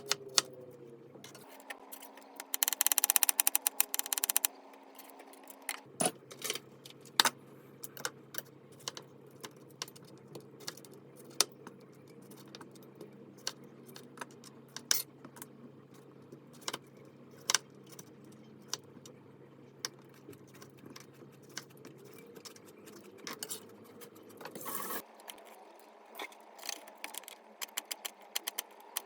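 Kitchen clatter: scattered sharp clicks and clinks of utensils and dishes being handled, with a dense run of rapid taps about two seconds in.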